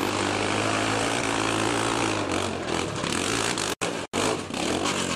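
A motor vehicle engine running steadily with a low hum, over a broad rushing noise. The sound cuts out abruptly twice for a moment near the end.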